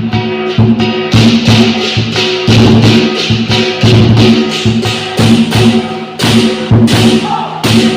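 Lion dance percussion: a large drum beaten in a quick, driving rhythm with clashing cymbals ringing on the beats, the cymbals growing louder about a second in.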